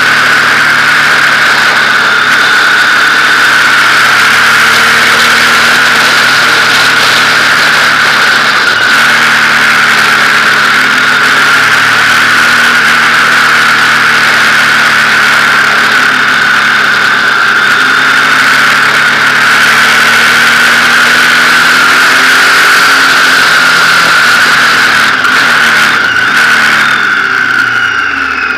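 Motorcycle engine running steadily under way, with loud rushing wind noise over it. Near the end the engine note falls away as the bike slows.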